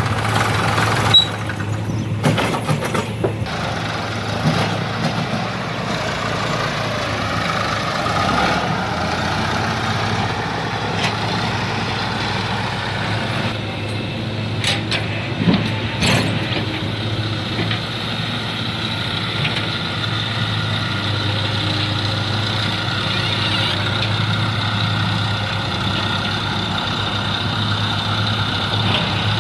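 Heavy vehicle's diesel engine running steadily, with a few sharp knocks near the start and again about halfway through.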